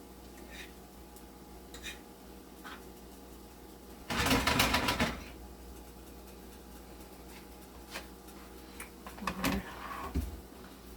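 Utensil stirring ackee and saltfish in a frying pan: a burst of rapid clattering against the pan about four seconds in, lasting about a second, with a few light taps before and after.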